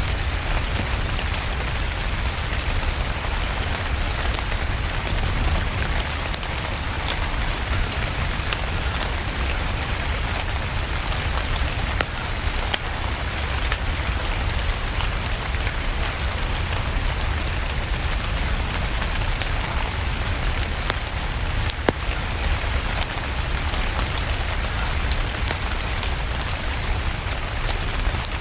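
Steady rain with a deep low rumble underneath, and scattered sharp crackles and pops from a wood fire throughout, one louder pop about three quarters of the way through.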